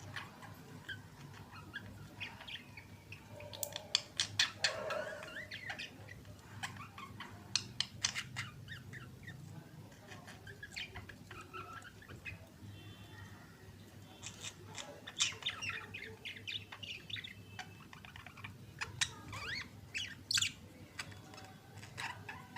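Budgerigars chattering: rapid short chirps, squawks and clicks in irregular runs, busiest a few seconds in and again in the second half, over a low steady hum.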